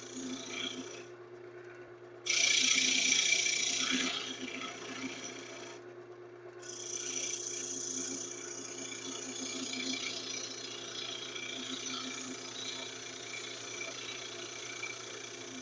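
Wood lathe running with a steady motor hum while the spinning wood is worked with a scraping, rasping sound, loudest in a burst from about two seconds in to about four seconds in.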